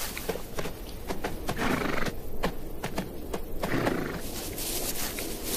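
Namib desert wild horses' hooves clopping on dry ground in scattered, uneven strikes, with two longer noisy bursts from the horses, about two seconds in and about four seconds in.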